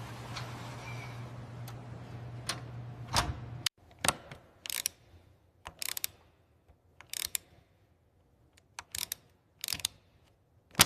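A steady machine hum cuts off abruptly a little under four seconds in, followed by a string of scattered sharp clicks and clatters, like tools or small metal parts being handled.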